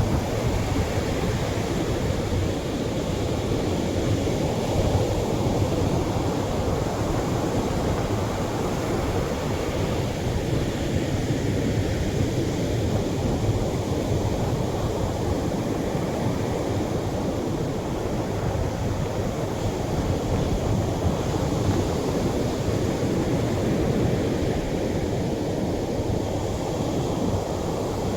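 Atlantic surf breaking on a sandy shore, heavier waves making a steady, even rush of water with no distinct single breaks standing out.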